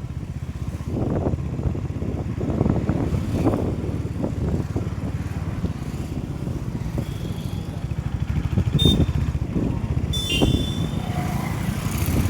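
Motorcycle running while being ridden on the road: a steady low engine sound with rough road and air noise. A brief high-pitched tone sounds about ten seconds in.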